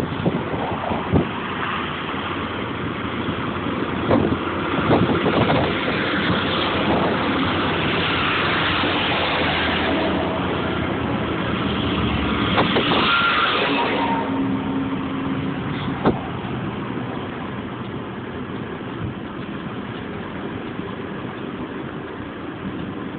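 A car driving: steady road and engine noise with scattered knocks and rattles, louder through the middle and easing off about fourteen seconds in.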